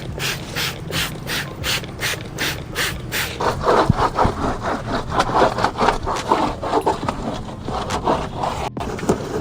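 A stiff brush scrubbing a surface back and forth in quick regular strokes, about three a second, then faster and busier scrubbing from about three seconds in.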